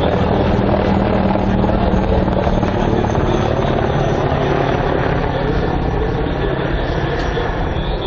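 Helicopter in flight: the steady drone of its rotors and turbine engines, easing slightly in the second half.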